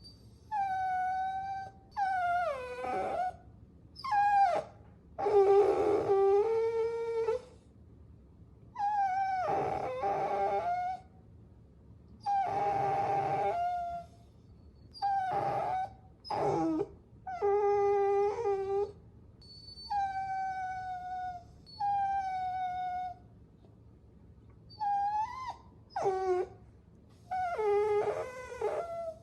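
Puppies whining: a string of about fifteen high, drawn-out whimpers and short howl-like cries, each lasting from half a second to two seconds, some wavering or dropping in pitch at the end, with short pauses between them.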